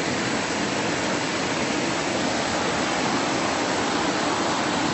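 Steady rush of a fast mountain stream running close by.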